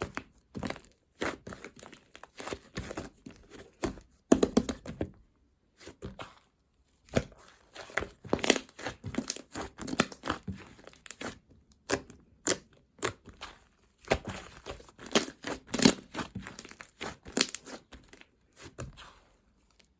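Close-up crinkling and crackling handling sounds, coming in irregular clusters of short bursts with brief pauses between them.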